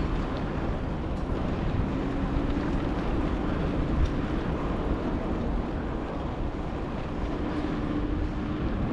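Wind rushing over the microphone of a camera carried on a moving bicycle, a steady low rumble, with city traffic running by.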